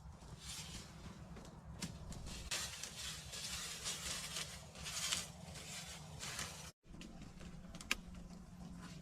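Rustling handling noise with a few sharp knocks; the sound cuts out for an instant near the end.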